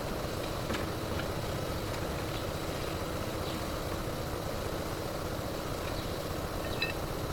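An engine idling steadily, with a few faint metallic clinks, the clearest near the end.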